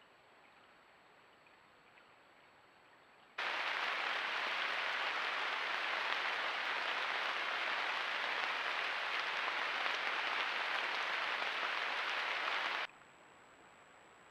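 Loud, steady, even hiss that starts suddenly a few seconds in and cuts off suddenly near the end, with only faint hiss and a thin high whine before and after it.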